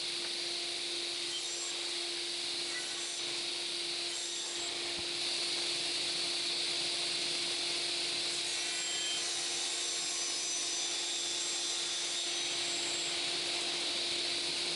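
Table saw running and cutting 18 mm plywood to size: a steady hum under a continuous cutting hiss, a little louder from about five seconds in.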